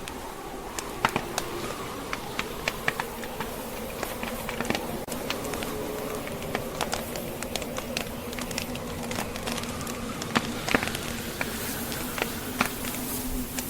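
Wood fire crackling, with many sharp irregular pops and snaps, over the steady rush and low howl of blizzard wind.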